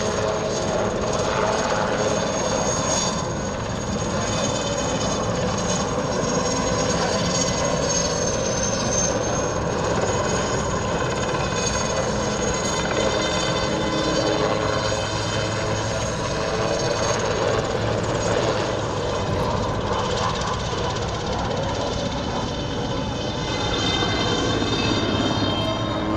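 IAR-330 Puma helicopter in flight, its twin turboshaft engines giving a steady high-pitched turbine whine over a broad engine rumble.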